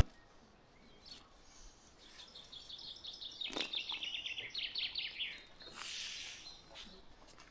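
A small bird singing a rapid trill of high chirps, a few seconds long and falling slightly in pitch, with a brief soft hiss shortly after.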